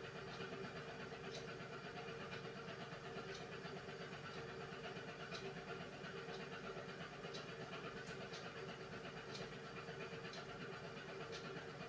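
Beko WMY81283LMB2 washing machine running a hand wash cycle: a steady motor hum with scattered light clicks about once a second as the drum turns the load.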